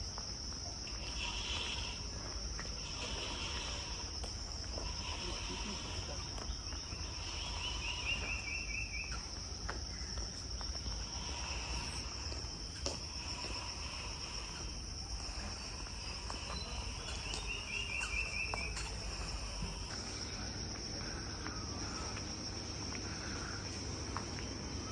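Steady high-pitched chorus of insects, cricket- or cicada-like, with a few short bird chirps and two quick trilled call series, at about a third and about three quarters of the way through.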